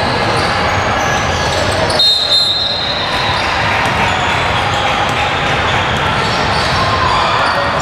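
Youth basketball game in a gym: a ball dribbling and bouncing on the hardwood over spectators' chatter. A brief high-pitched tone sounds about two seconds in.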